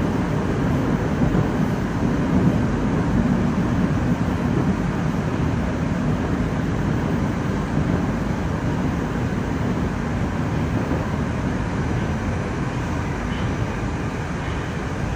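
Moscow Metro "Moskva-2019" train running at speed between stations, heard from inside the car: a steady rumble of wheels and motors that eases a little near the end.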